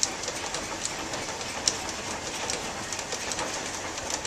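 Belt-driven grain smutter and mill machinery running, a steady rattle with many sharp irregular clicks.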